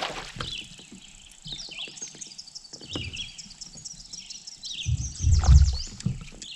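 Songbirds chirping and trilling over quiet outdoor ambience, with scattered low knocks and a louder low rumble about five seconds in.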